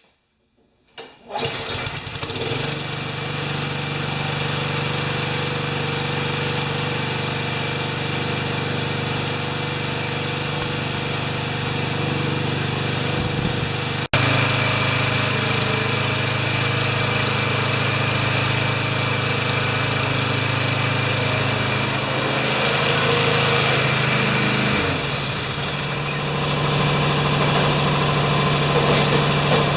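Tecumseh lawn mower engine starting from cold after priming, catching about a second and a half in, then running steadily. Its speed dips for a few seconds about three-quarters of the way through, then picks back up.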